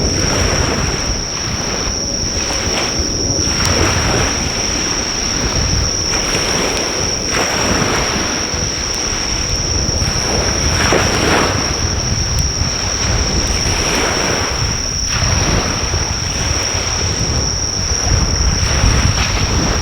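Waves washing onto a beach, swelling every three to four seconds over a low rumble of surf, with a steady high-pitched insect trill over it and a few faint crackles from a driftwood fire.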